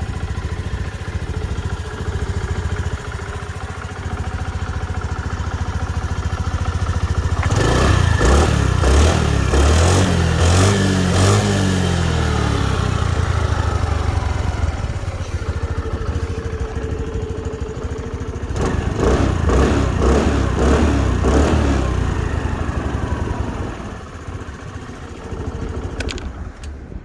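Fully stock Honda NAVI110's single-cylinder four-stroke engine idling through its standard muffler, blipped up twice on the throttle with no load and falling back to idle each time. The level drops in the last few seconds.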